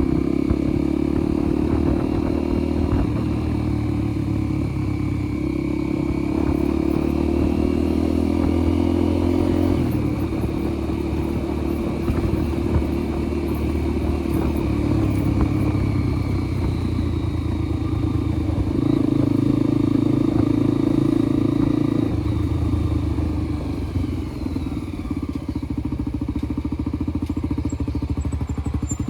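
Motorcycle engine running while under way, its pitch shifting up and down in steps as speed changes. Near the end it drops to a lower, evenly pulsing note.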